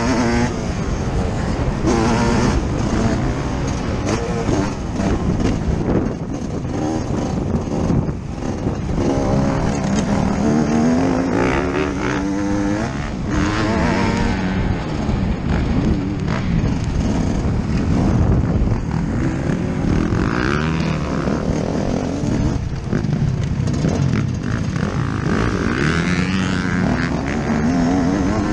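Yamaha YZ125's 125 cc single-cylinder two-stroke engine heard from on board, its pitch rising and falling over and over as the throttle is opened and shut around a motocross track.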